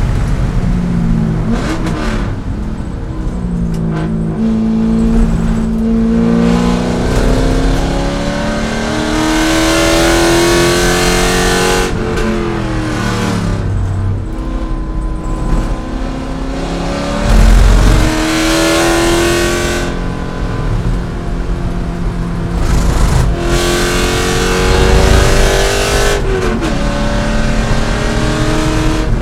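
C5 Corvette's V8 at race pace: revs climb and fall several times as it shifts up and down through the gears, over steady wind and road noise. There is one loud low thump a little past halfway.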